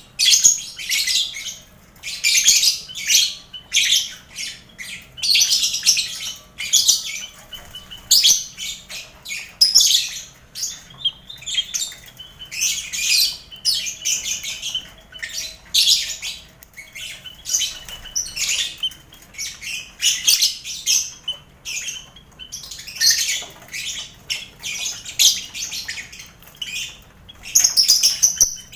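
A crowded colony cage of lovebirds, kept with finches and quail, calling all at once: a dense, unbroken run of shrill chattering and chirps, call upon call with hardly a pause.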